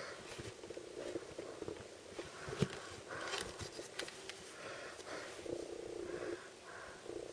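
Packaging crinkling and rustling as it is handled and opened, with scattered sharp clicks; the sharpest click comes about two and a half seconds in.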